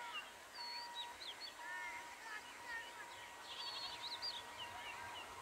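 Birds chirping and calling in short, arcing notes, over a faint steady high tone that breaks off and resumes several times.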